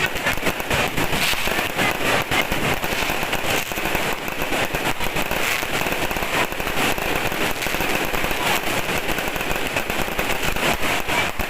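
Many fireworks going off at once: a continuous barrage of overlapping bangs and crackles with no pause.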